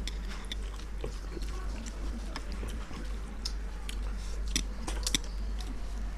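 Close-up eating: chewing and biting, with scattered short sharp crunches and mouth clicks, a few louder ones near the end.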